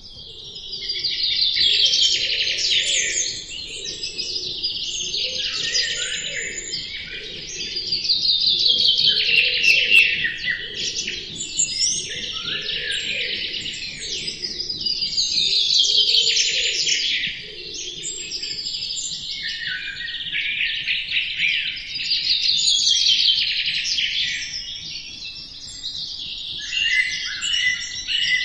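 Songbirds singing in long runs of rapid chirps and falling notes that swell about every seven seconds, with quieter chirping between.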